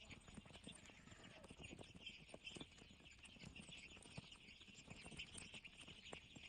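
Faint sound of chickens pecking, many quick irregular taps, over a steady high chorus of cheeping.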